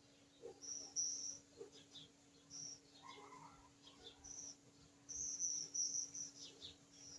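Short, high-pitched animal chirps repeating irregularly, busiest around a second in and from about five seconds on, with a few quick falling squeaks, over a faint steady hum.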